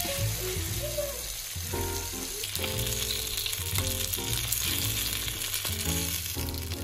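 Beaten egg and sausages sizzling in a hot multi-section frying pan, the egg just poured in; a steady sizzle, strongest at the start. Background music plays underneath.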